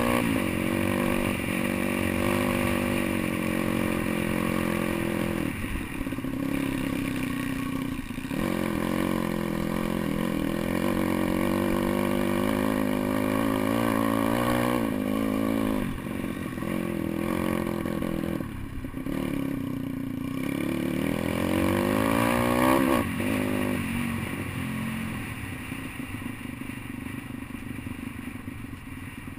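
Pit bike's small single-cylinder engine revving up and down off-road, the throttle shut off briefly several times between rising pulls, then settling to a lower, quieter note near the end. Light clattering from the bike runs underneath.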